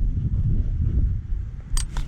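Uneven low rumble of wind noise on the microphone, with a sharp click near the end.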